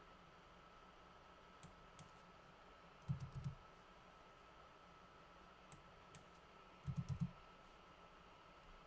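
Computer mouse clicks and short bursts of keyboard typing: a few single clicks, and two quick runs of about four keystrokes, one a few seconds in and one near the end, over faint hiss with a steady high whine.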